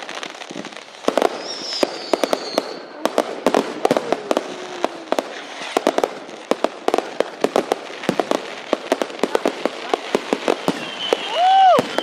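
Fireworks going off in quick, irregular succession: sharp bangs and crackles with a few high whistles. Near the end comes a loud whistle that rises and falls.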